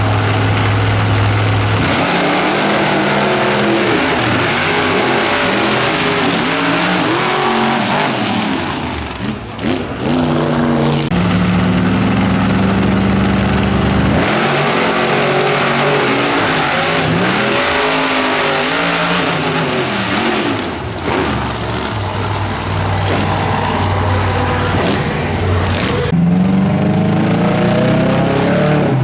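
Monster truck engine revving hard, its pitch rising and falling again and again, with a few stretches where it holds a steady pitch.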